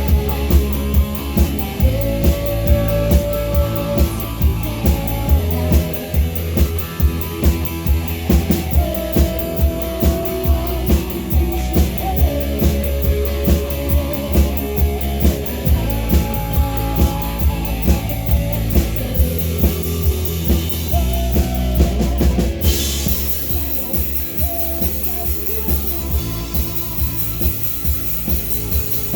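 Rock band playing live: a steady drum beat, about two hits a second, under guitars and a sung melody. A little past two-thirds of the way through, crash cymbals open up and keep ringing.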